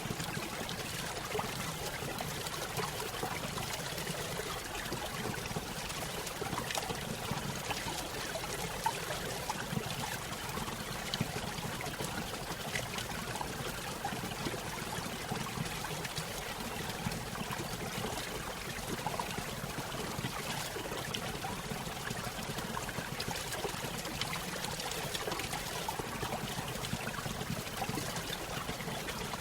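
Small stream running over a little waterfall: a steady splashing trickle with small bubbling plinks throughout.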